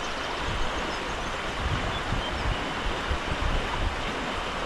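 Steady rushing of rain-swollen water, such as a flooded stream. Low buffeting rumbles join it from about a second and a half in.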